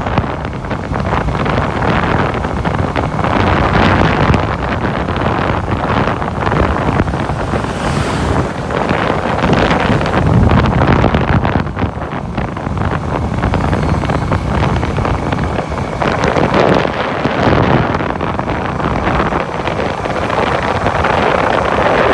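Wind buffeting the microphone on a moving bike, a loud, steady rushing noise that swells and dips.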